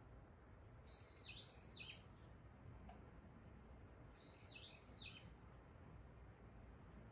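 A wild songbird calling faintly twice, about a second in and again about four seconds in; each call is a quick run of high, arching notes lasting about a second.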